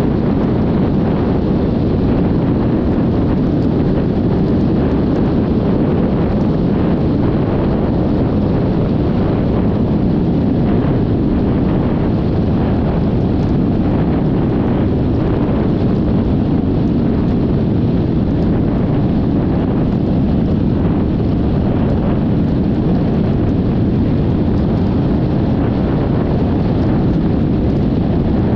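Steady wind rush on the microphone of a camera mounted on a moving Yamaha XMAX 300 scooter, with road noise underneath.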